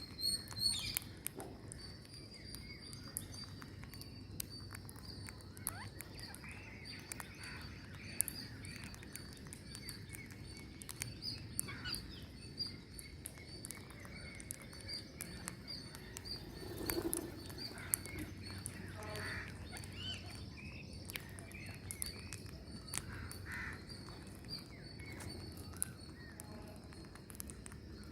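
Birds chirping and calling: a continuous high, rapidly repeated chirping with scattered short calls over it and light clicks throughout.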